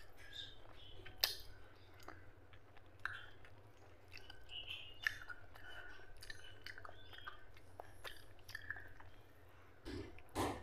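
Close-up mouth sounds of chewing soft, fatty curried mutton and rice: wet smacking and squelching with scattered sharp lip and tongue clicks.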